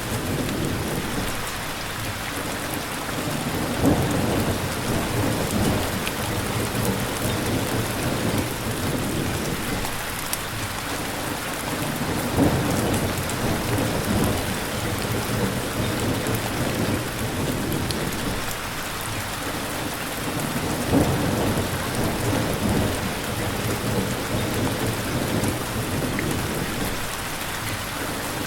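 Steady rain pouring, with low rumbles of thunder swelling about every eight to nine seconds.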